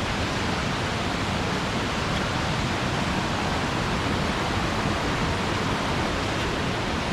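Popokvil waterfall: a steady, even rush of falling water.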